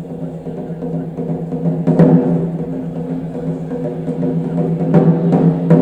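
Loud drum strikes, one about two seconds in and another near the end, over a steady low droning tone that does not change pitch.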